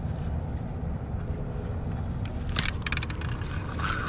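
Steady low rumble, with a quick run of sharp clicks from a fishing reel about two and a half seconds in, as line is taken up on a bite.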